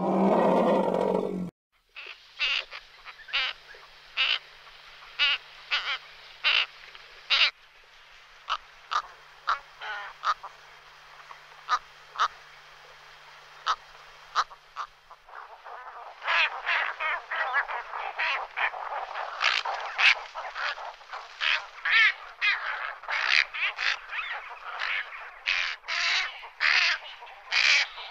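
A loud, low animal call, most likely an elephant, cuts off after about a second and a half. Then comes a chorus of short, quick bird calls, scattered at first and crowding together from just past halfway.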